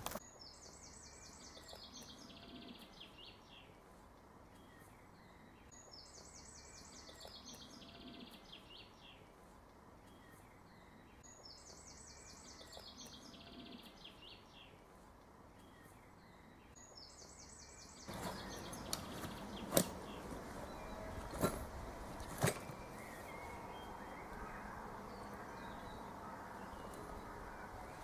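A songbird singing the same short descending phrase three times, several seconds apart. About two-thirds of the way in, a louder steady noise sets in, with three sharp clicks.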